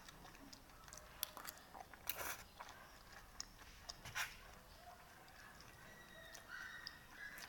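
Close-up eating sounds of pansit batil patong, a noodle dish: chewing, with scattered small sharp clicks and a short hissy noise about two seconds in.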